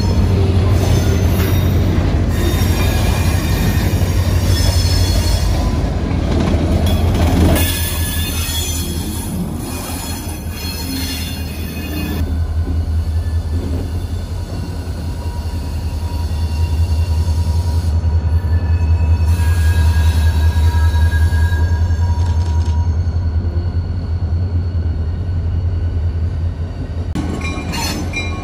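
Freight cars rolling slowly past with their wheels squealing and screeching on the rails, loudest in the first half. Underneath is the steady low drone of an EMD four-axle diesel locomotive, which grows stronger as the engine draws alongside.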